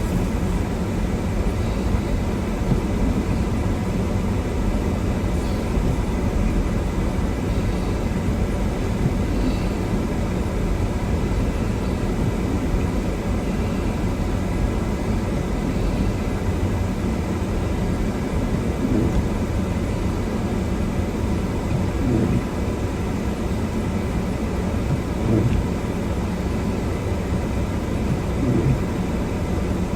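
Steady low rumble of a car driving slowly on a snow-covered road in strong wind: engine, tyre and wind noise together.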